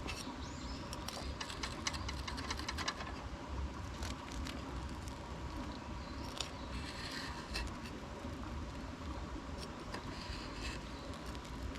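Bursts of rustling and light clicks from things being handled, in clusters a few seconds apart, over a steady low rumble.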